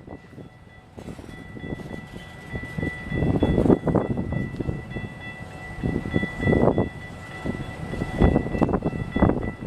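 Train passing on the tracks: irregular rumbling and clattering of wheels over rail, under a steady high ringing tone.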